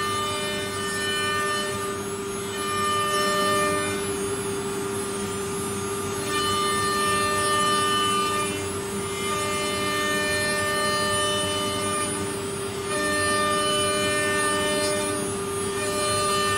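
CNC wood router running, its spindle giving a steady whine. A second, higher whine comes and goes in spells of two to three seconds as the machine works.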